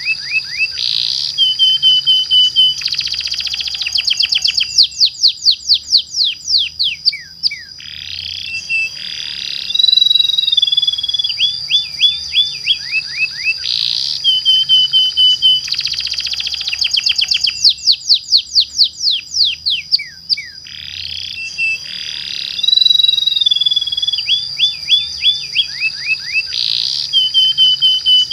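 Domestic canary singing: long rolling trills built from fast runs of falling whistled notes, broken by held whistles and buzzy notes. The same song sequence repeats about every thirteen seconds, as a looped lure-song recording.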